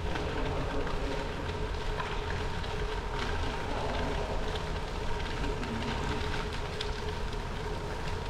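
Bicycle riding along a gravel trail: steady tyre and drivetrain noise with small rattles and clicks, mixed with wind on the microphone and a faint constant hum.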